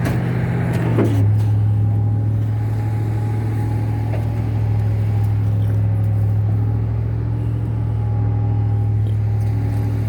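Tow truck's engine running with a steady low drone; its pitch drops a little about a second in, then holds steady.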